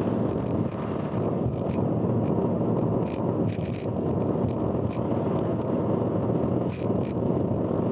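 Steady road and tyre noise heard inside a car on an expressway, with irregular sharp rattling ticks about twice a second. The rattling is the loud abnormal noise that the recording carries.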